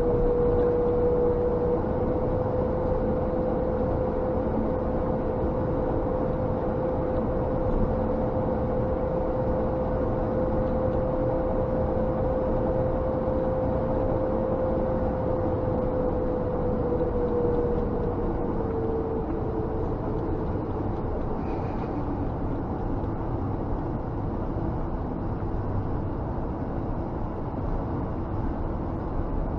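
Scania G460 truck driving, heard from inside the cab: a steady drone of engine and road noise. A whine rides on top, slowly rising a little and then sinking before it fades out about two-thirds of the way through.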